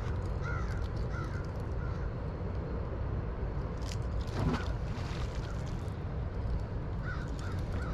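A bird calling in short repeated notes, in clusters near the start and the end, over a steady low rumble of wind and river water. About halfway through comes a brief splash as the released catfish goes back into the water.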